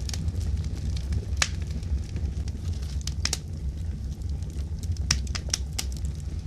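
Wood fire burning in a fireplace: a steady low rumble of flames with sharp crackles and pops at irregular intervals, a quick cluster of them near the end.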